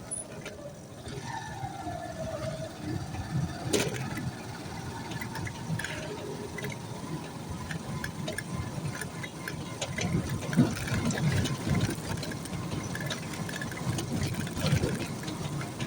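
A vehicle on the move: steady engine and road rumble with scattered knocks and bumps.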